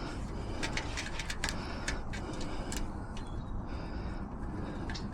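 Scattered light metallic clicks from lock-picking tools working inside a site box's lever lock, over a steady low rumble.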